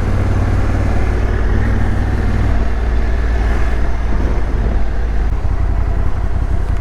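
Motorcycle engine running steadily at low road speed, with a rumbling noise underneath.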